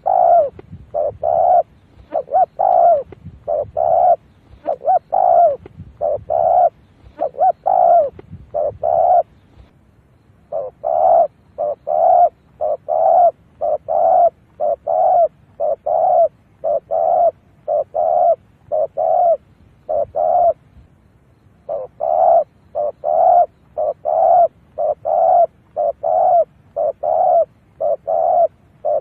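Spotted dove cooing: short coos repeated evenly, about two a second, with two brief pauses about ten and twenty seconds in. It is the decoy dove's call, used as a lure to draw in wild spotted doves.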